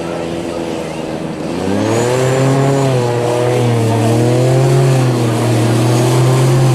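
A motorboat engine running, speeding up about a second and a half in, then its pitch wavering slowly up and down.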